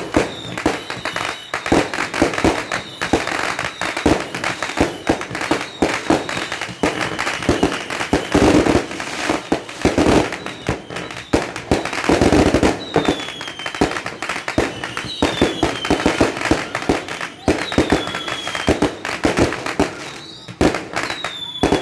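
Fireworks and firecrackers going off in rapid, overlapping bangs and crackles, thickest about halfway through. In the second half, several short whistles fall in pitch as whistling fireworks go up.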